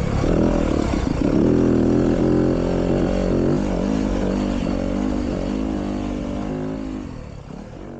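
Dirt bike engine revving up and down as it is ridden, the pitch rising and falling with the throttle. The sound fades away over the last couple of seconds.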